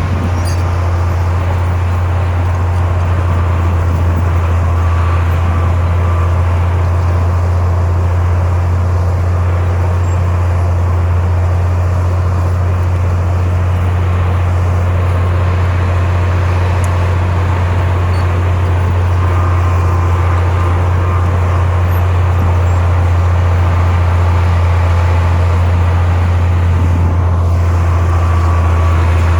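Heavy diesel engine of earthmoving machinery running steadily, a low, even hum with no change in pitch.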